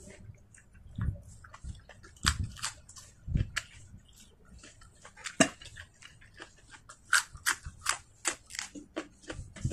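A person eating by hand: irregular wet mouth clicks and smacks of chewing, with a few dull thumps in the first few seconds. Near the end come crisp bites into a raw green vegetable stalk.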